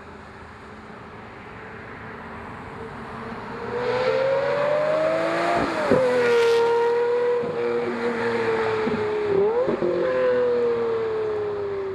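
Lamborghini Murcielago LP640's V12 through a catalytic converter and muffler-bypass X-pipe sport exhaust. It runs low at first, climbs in pitch from about three seconds in, dips sharply and picks back up near six seconds, holds, dips briefly again near nine and a half seconds, then slowly falls away.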